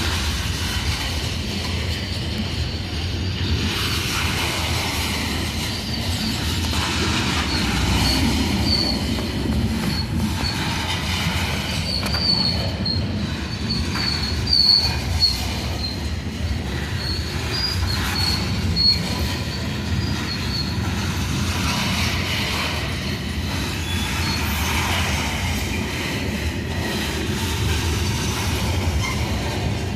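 Coal train's cars rolling past with a steady low rumble of wheels on rail. Wheels squeal at a high pitch in short, repeated bursts from a few seconds in until past the middle, with a few sharp clunks among them.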